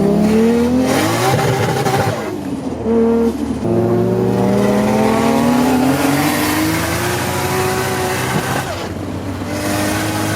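Nissan GT-R engine accelerating hard, its note rising through two long pulls with a brief lift between them. Near the end it drops to a steady lower note.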